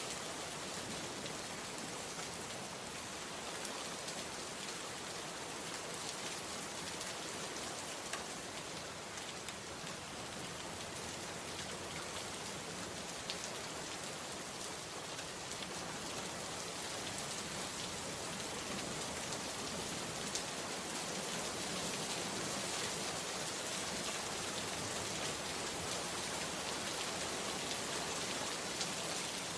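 Steady rain falling: an even hiss with the odd single drop ticking out of it.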